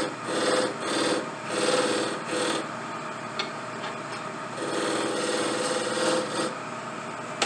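Hand shaping of a briar wood pipe bowl: a file or rasp rubbed back and forth at about two strokes a second. This is followed by a pause with a sharp click and then one longer continuous stroke.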